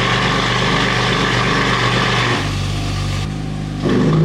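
BMW F80 M3's S55 twin-turbo inline-six idling loud and deep on a cold start through an equal-length exhaust with its valves open and catless downpipes. The tone drops lower and a little quieter about two and a half seconds in, then the level comes back up near the end.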